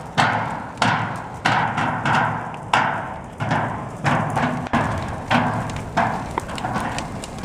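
Steady rhythmic banging, about three strokes every two seconds, each stroke ringing out briefly, like drumming on a hard object, over a background of crowd noise.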